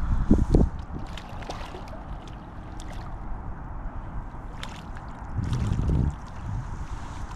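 Wind buffeting the microphone, a low rumble that gusts louder near the start and again about five and a half seconds in, with a few faint clicks.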